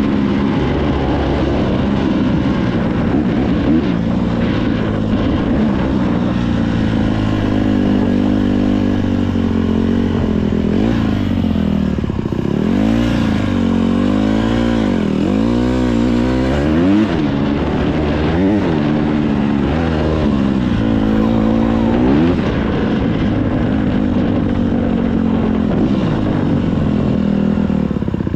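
Dirt bike engine running while being ridden. Its pitch climbs and drops again and again with the throttle, with the widest swings in the middle stretch.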